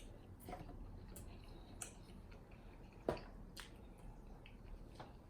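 Close-miked chewing of sauced chicken wings: faint wet mouth clicks and smacks, with one sharper click about three seconds in.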